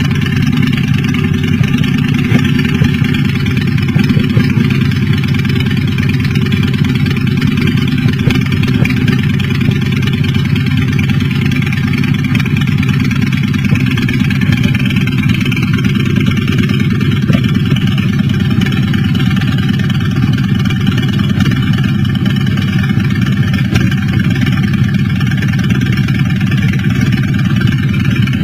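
Motorcycle engine running steadily, with no breaks or clear revs.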